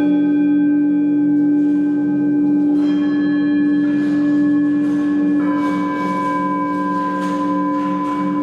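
Overlapping, long ringing tones from struck bell-like instruments over a strong low steady tone. New notes are struck about three seconds and five and a half seconds in and ring on.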